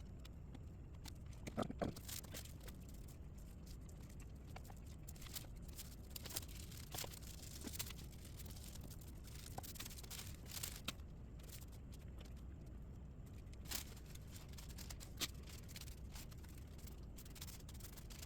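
Faint handling noises over a low steady hum: scattered small clicks and ticks with light rubbing and rustling. The most distinct cluster comes about a second and a half in.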